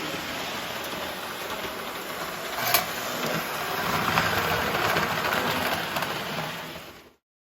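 Lionel toy train locomotive running on its track: a steady motor whir and wheel rumble, with a sharp click about three seconds in. It grows a little louder, then cuts off suddenly near the end.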